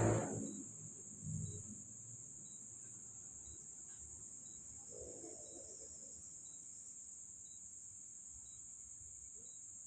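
Crickets trilling steadily, with a faint short tick about once a second; a louder sound dies away in the first second.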